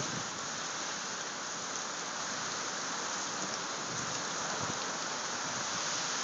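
Steady rain from a tropical storm, falling as a continuous even hiss.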